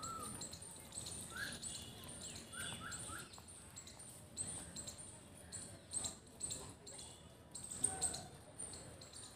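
Birds chirping in short rising notes, three in quick succession about three seconds in, over a thin high-pitched chirring, with one brief louder sound about eight seconds in.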